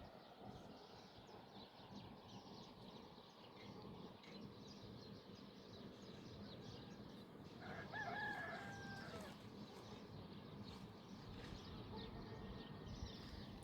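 A rooster crows once, a drawn-out call of about two seconds starting about eight seconds in, over a faint, even background.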